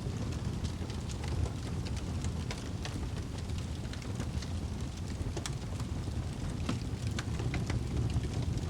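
Wood fire crackling in a fireplace: a steady low rumble from the flames, with frequent irregular sharp pops and snaps.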